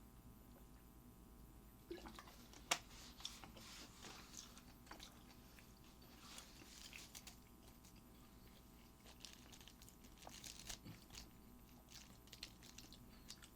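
Faint chewing and mouth sounds of a person eating, with scattered soft clicks; one sharper click comes a little under three seconds in.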